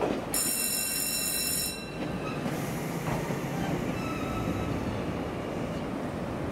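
Ex-Tokyo Metro 01 series electric train pulling into the station with a steady low rumble. A high, ringing wheel squeal sounds for about a second and a half near the start.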